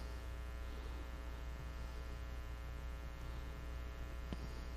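Steady electrical mains hum, low in level, with one faint click about four seconds in.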